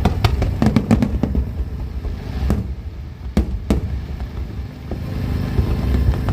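Fireworks bursting: a quick string of sharp cracks and bangs in the first second, then a few separate bangs about halfway through, over a steady low rumble.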